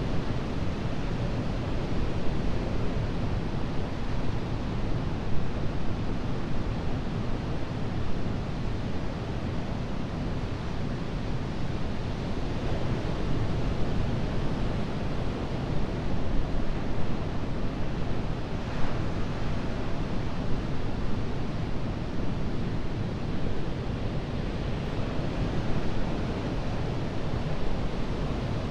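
Atlantic surf breaking and washing up a sandy beach: a continuous rush of noise with slow swells in level, and one brief brighter wash about two-thirds of the way through.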